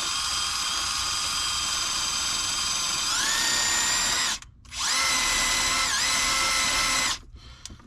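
Power drill motor whining in two runs. The first steps up in pitch about three seconds in and stops. The second starts half a second later, dips in pitch briefly as if loaded, and stops near the end.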